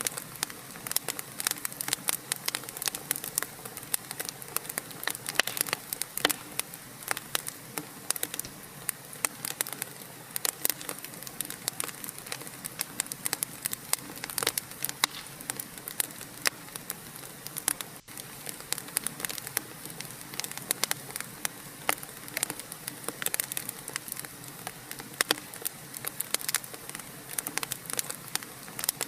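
Wood fire crackling, with dense, irregular pops and snaps over a soft hiss.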